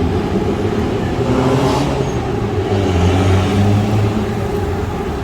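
City road traffic, with motor vehicle engines running and one getting louder as it accelerates, a little past the middle.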